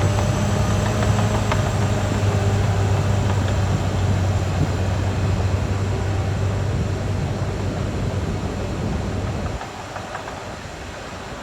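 Caterpillar D6R XL bulldozer working: its diesel engine runs steadily under load, with the rumble and a few faint clanks of the steel tracks. About nine and a half seconds in the sound drops to a quieter, lower level.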